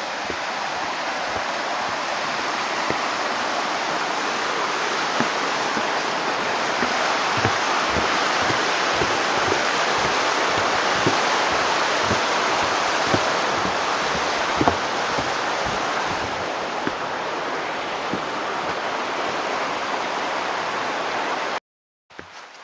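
A loud, steady rush of water, as from a waterfall or fast mountain stream. It cuts off abruptly near the end.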